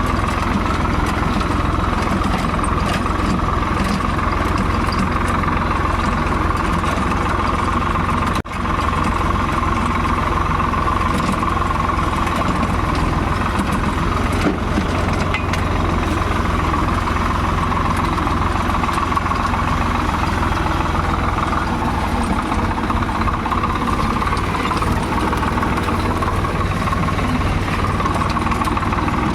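Tractor engine running steadily and loudly, with a brief break in the sound about eight and a half seconds in.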